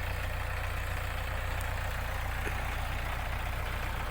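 ISEKI NT554 tractor's diesel engine running steadily, a low, even drone that does not change.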